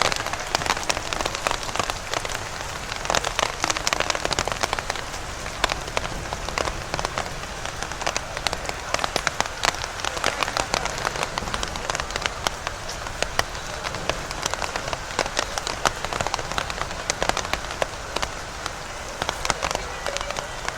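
Steady rain falling, with a dense, continuous scatter of sharp drop hits close by.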